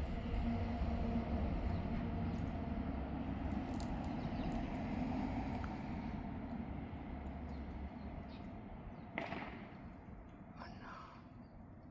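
A low rumble that fades steadily away, with a brief sharp sound about nine seconds in and a short higher-pitched sound near the end.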